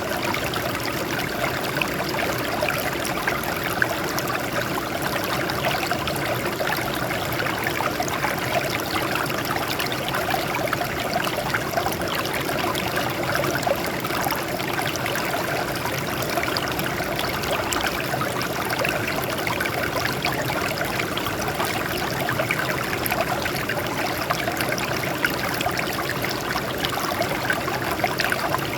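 Water flowing and splashing over rocks in a steady stream, an even rushing with fine trickling detail.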